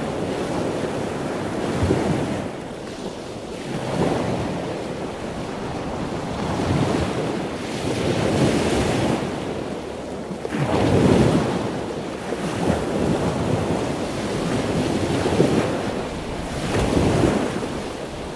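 Ocean surf: waves washing in and out, a rushing noise that swells and fades every two to three seconds.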